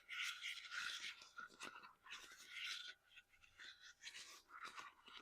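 Close-miked scratching and rubbing of fingertips or nails over a small object, in three stretches of a second or less, with light clicks between them.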